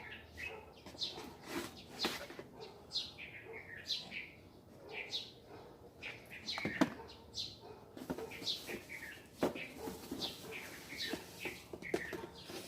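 Small birds chirping over and over, each call a short downward-sliding note, with a few sharp knocks in between.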